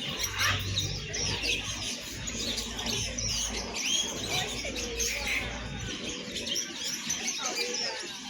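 Many caged songbirds chirping and calling at once, a dense overlapping chorus of short high chirps and whistled glides, over a low rumble that dies away near the end.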